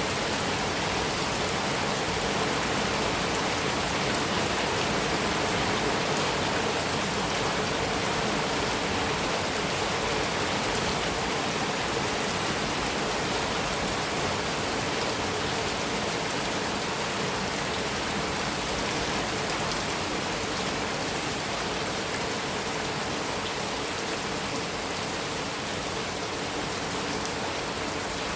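Heavy rain falling steadily on a metal roof, an even hiss with no thunder.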